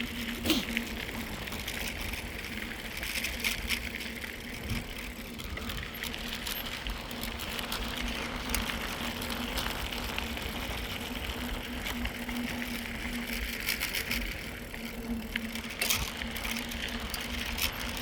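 Mountain bike rolling along a trail: a steady rumble of tyres and riding noise with scattered small rattles and clicks from the bike, picked up by a phone held while riding.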